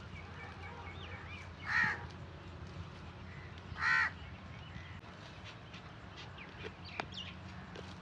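A bird gives two short, loud calls about two seconds apart, over faint chirping of small birds.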